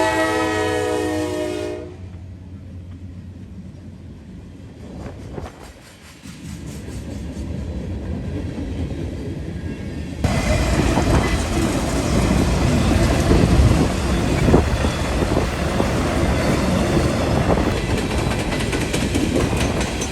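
Freight train locomotive horn sounding several tones at once for about the first two seconds, then the train's rumble builds. About ten seconds in it turns loud and close, with wheels clattering on the rails as the freight train passes.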